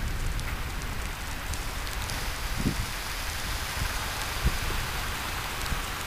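Steady rain hiss at the tail end of a hailstorm, with a few brief low bumps of wind on the microphone.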